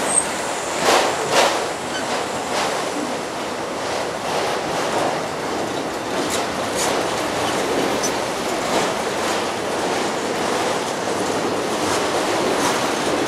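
Freight train cars rolling past with a steady rushing rumble, their wheels clicking over rail joints in pairs every few seconds.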